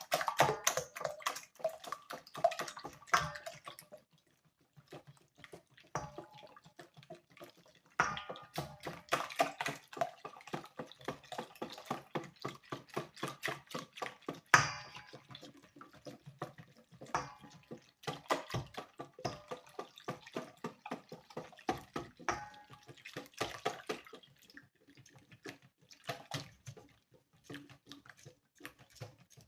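Milk being poured a little at a time into a bowl of beaten eggs and sugar while it is whisked, making rapid, uneven clicking and sloshing strokes in several spells with short pauses.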